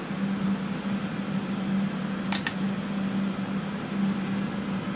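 Ventilation fans for soldering fumes running steadily with a low hum. Two quick clicks come a little past two seconds in.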